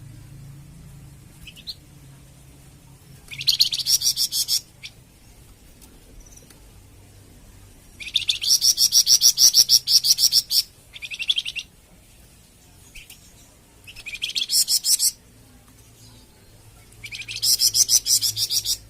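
A caged songbird singing repeated bursts of rapid, high trilled notes: four bursts, each one to two and a half seconds long, with short pauses between them. The longest burst comes just past the middle.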